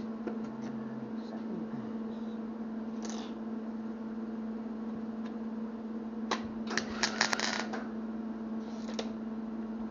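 A steady electrical hum in a metalworking shop, with a single click about three seconds in and a quick rattle of sharp metal clinks from handling tools or parts a little past the middle, then a short hiss near the end.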